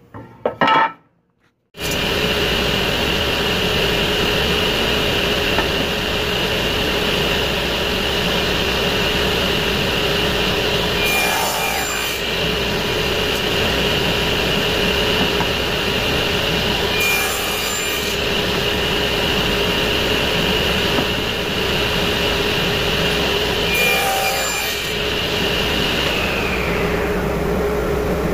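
A woodworking power tool running steadily while it cuts or sands wood, starting about two seconds in after a short clatter. Three brief higher hisses come about six seconds apart, and the tool's pitch sags slightly near the end.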